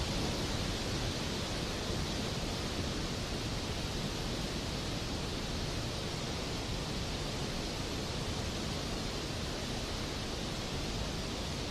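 Steady rainfall, an even hiss with no single drops, thunder or changes in loudness standing out.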